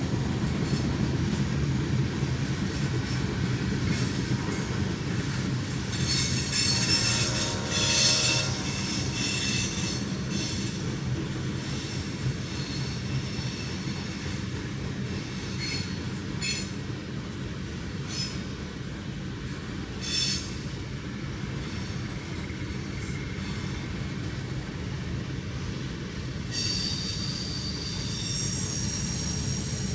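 Freight train cars (boxcars and tank cars) rolling past with a steady low rumble. Their wheels squeal high against the rails off and on: a strong stretch of squealing about six to nine seconds in, short squeaks around sixteen and twenty seconds, and another squeal starting near the end.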